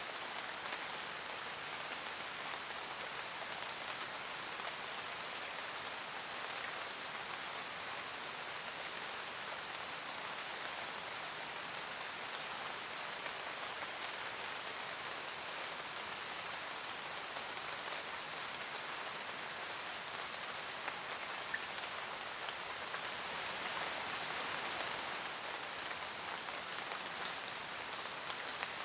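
Steady rain falling in a forest, a dense patter of raindrops on leaves with occasional distinct drops, swelling slightly a little before the end.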